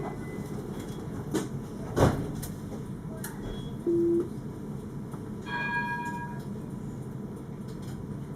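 Alstom Citadis 402 tram, heard on board: a steady low hum with a sharp knock about two seconds in, a short loud beep about four seconds in, and a brief chime of several tones a second and a half later.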